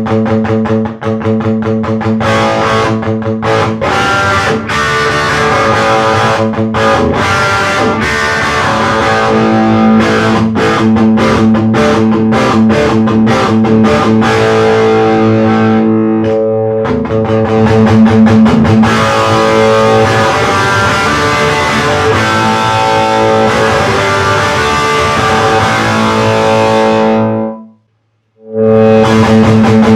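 Heavily distorted electric guitar played through an EVH 5150 III amplifier: rapid picked riffing and held notes. It stops dead for about a second near the end, then starts again.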